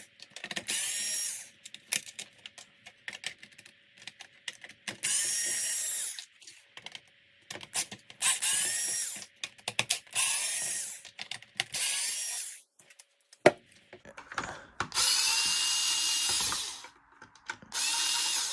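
Cordless power driver whining in about six short runs of a second or two, unscrewing the screws from a Dyson V7 direct-drive floor head's base plate, with small clicks of screws and plastic between the runs.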